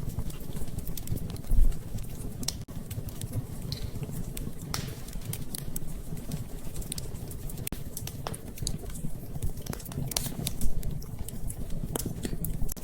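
Wood fire in a fireplace crackling, with irregular sharp pops over a low steady rumble of the flames, and a heavier low thump about a second and a half in and again near the end.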